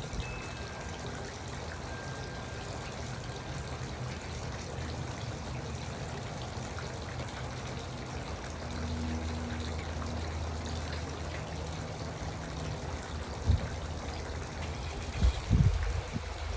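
Garden water fountain trickling and splashing steadily, over a faint low hum, with a few brief low thumps near the end.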